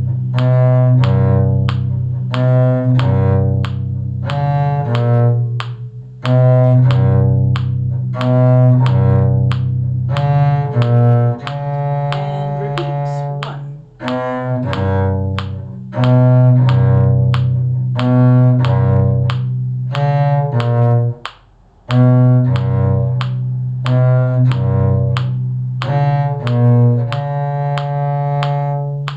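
Bowed string instruments playing a simple tune in a steady beat, a low cello-range bass line under a higher melody line. The notes are held and change about once or twice a second, with a brief break about three-quarters of the way through.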